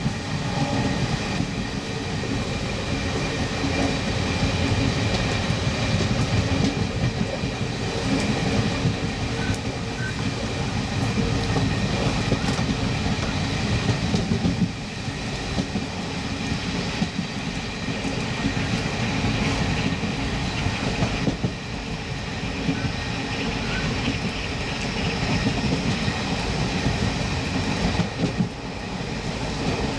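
Indian Railways passenger express running on the rails at speed. A steady, heavy rumble of wheels on track is broken by frequent light clicks.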